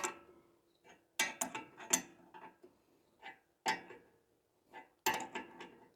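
Hand tools clicking and knocking on the steel front-suspension parts of a car during ball joint removal, in irregular clusters of sharp metallic taps with a brief ring after some.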